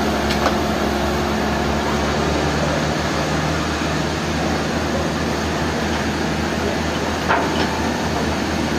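Sawmill machinery running steadily, a loud mix of hum and noise. The hum drops in pitch about two and a half seconds in, and there are a couple of short knocks.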